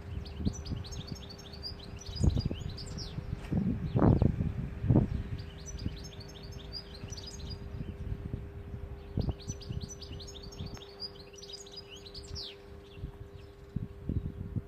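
European goldfinch singing: three bouts of rapid, high twittering song a few seconds apart, with scattered low bumps and a faint steady hum underneath.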